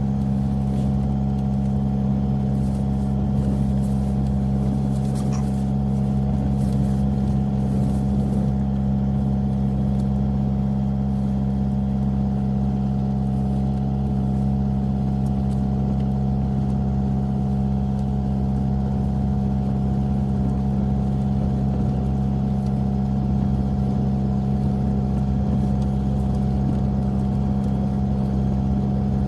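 Jetta TDI diesel engine running at a steady, unchanging speed, a constant low drone.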